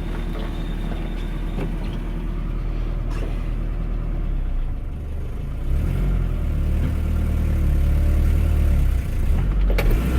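1995 Nissan D21 Hardbody pickup's engine running, its first run after sitting a year and a half. About six seconds in it grows louder and deeper as the truck is driven off under load.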